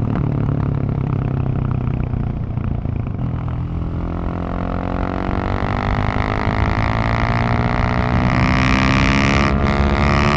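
Husqvarna 701 supermoto's single-cylinder engine heard at the exhaust while riding. It eases off about three seconds in, then pulls with a steadily rising pitch under acceleration, with a brief break near the end like a gear change.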